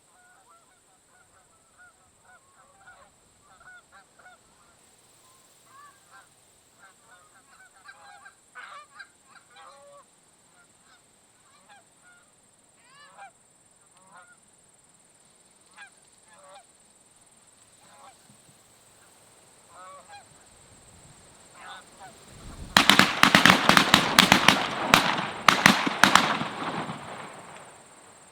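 A flock of geese honking, many overlapping calls. About 23 seconds in comes a loud burst lasting about four seconds, full of rapid sharp cracks over a rushing sound.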